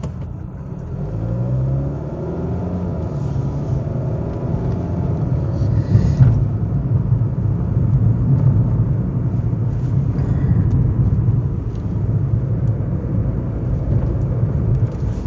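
Car engine and road rumble heard from inside the moving car, the engine pitch rising as it accelerates in the first few seconds, with a brief thump about six seconds in.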